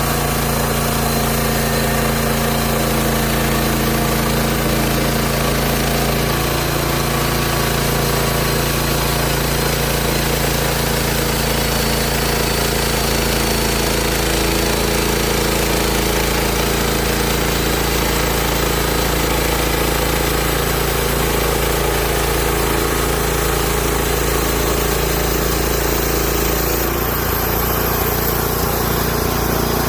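Small gasoline engine of a portable bandsaw sawmill running steadily at a constant speed. Its tone shifts abruptly a few seconds before the end.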